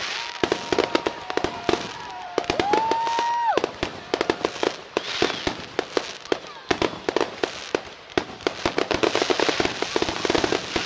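Fireworks finale: a rapid, continuous string of bangs and crackling reports from aerial shells, growing denser and louder near the end. Two held high whistles sound in the first few seconds.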